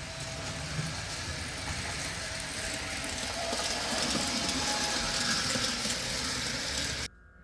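O-scale model train running on its track, a steady rumbling clatter of wheels and motor that grows louder as it draws closer, then cuts off suddenly near the end.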